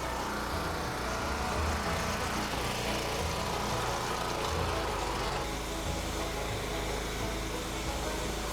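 An engine running steadily at idle, with a hiss over it that eases off about five seconds in.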